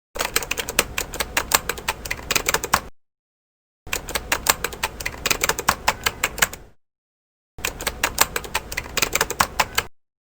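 Typing sound effect: rapid key clicks in three runs of about three seconds each, with dead silence between the runs.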